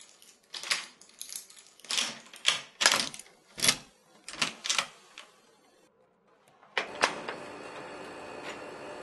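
Metal lock pick and tension wrench clicking and rattling in a door's lock cylinder: a quick series of sharp clicks of uneven loudness for about five seconds. After a short pause, a door clicks twice as it opens, and a steady room hum follows.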